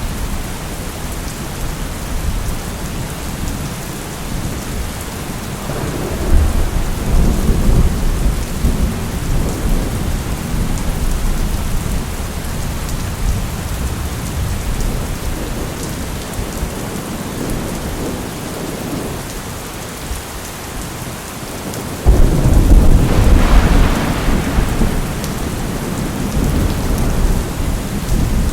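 Thunderstorm: steady heavy rain with rolling thunder. One rumble builds about six seconds in, and a louder, sharper crack of thunder breaks about twenty-two seconds in, rumbling on for a few seconds after.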